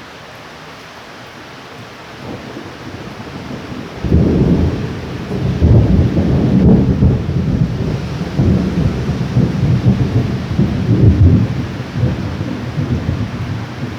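Thunder over steady rain. A low rumble builds about two seconds in, then breaks into a sudden loud peal about four seconds in. It keeps rolling in waves of low rumbling for most of the rest before easing off near the end.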